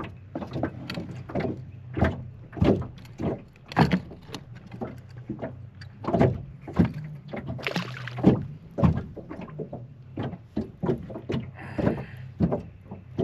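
Irregular knocks and slaps against a boat, several a second and uneven in strength, over a steady low motor hum.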